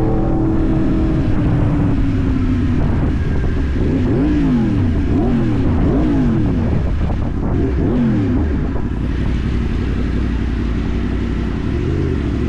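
Yamaha MT-10's inline-four engine running, revved up and down several times in quick succession through the middle, then settling back to a steady note.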